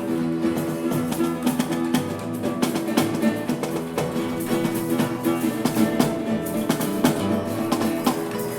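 Live instrumental rock from a band: guitar playing over bass, with frequent sharp drum hits and no vocals.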